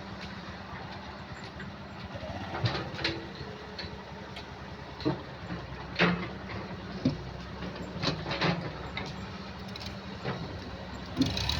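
Mahindra tractor's diesel engine running at a steady speed, with irregular knocks and clatters over it through the middle and end.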